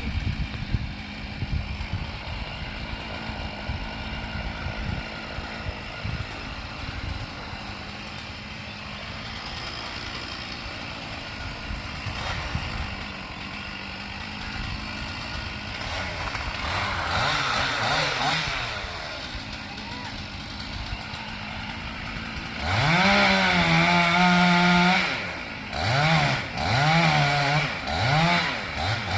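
Two-stroke chainsaw running steadily under a truck engine's idle. About two-thirds of the way through the saw is revved hard, and near the end it revs again in several short bursts.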